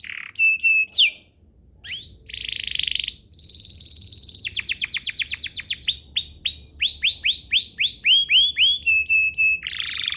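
Domestic canary singing: fast trills of repeated notes, a buzzy rolled phrase, a run of quick downward-sweeping notes and short held whistled tones, with a brief pause about a second and a half in.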